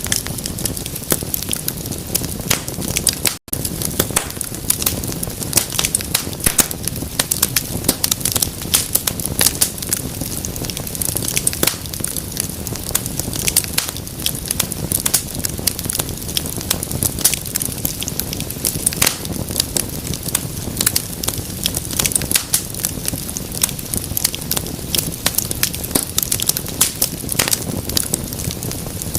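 Wood fire crackling in a fireplace: a dense, steady run of sharp pops and snaps over the low rush of the flames. A split-second gap of silence falls about three and a half seconds in.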